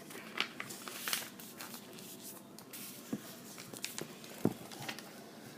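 A sheet of printer paper being folded and creased by hand: faint rustling with a few short crackles and clicks.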